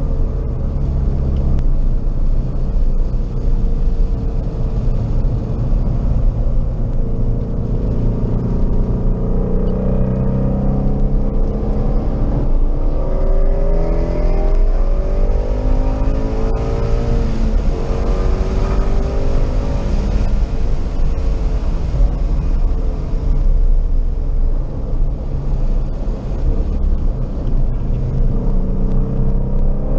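Car engine under hard acceleration, heard from inside the cabin on a racetrack lap, its pitch climbing and dropping back again and again as it pulls through the gears. It eases off briefly about 25 seconds in as the car slows for a turn.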